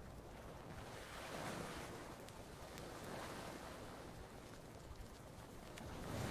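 Gentle ocean waves washing ashore, swelling about a second and a half in, again around three seconds, and building near the end, with a few faint campfire crackles.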